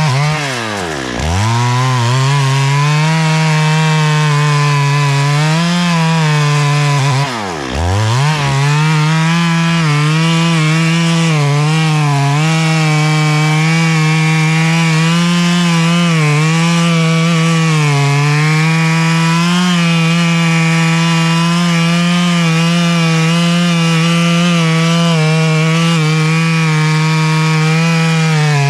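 Two-stroke chainsaw running at high revs through wood, its pitch wavering under load. The revs drop sharply and pick straight back up twice, about a second in and again around seven seconds.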